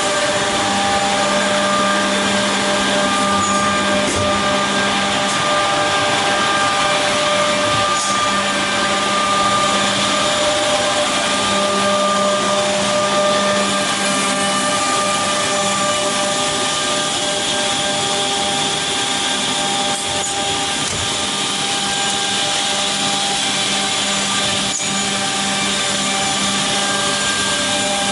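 OTT Tornado Top edge-banding machine running: a steady machine whir with several held tones, and a few faint clicks now and then.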